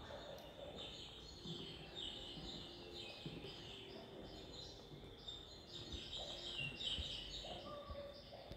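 Birds chirping in quick series of short, high notes, over a steady thin high-pitched tone.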